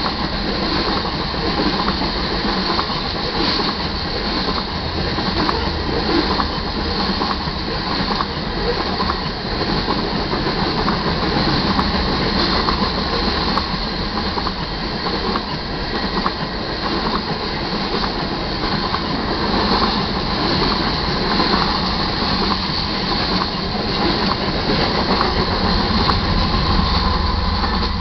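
A freight train of covered hopper cars rolling past close by. Its steel wheels on the rail make a steady rumble and rattle with repeated clacks, a little louder near the end.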